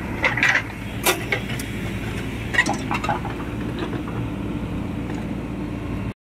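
Heavy diesel engine running steadily, with a handful of short metallic clinks and clanks in the first three seconds. The sound cuts off abruptly near the end.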